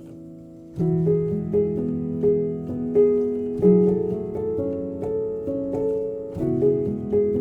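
Solo piano playing a slow, calm piece. A held chord fades, then just under a second in the playing grows louder, with a repeating figure of single notes struck about twice a second over sustained bass notes.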